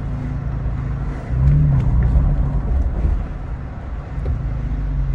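Toyota Tacoma TRD Pro's 3.5-litre V6 through an MBRP 3-inch cat-back exhaust, a low rumble while driving. A little over a second in it gets louder and rises briefly in pitch as the throttle opens, then eases back.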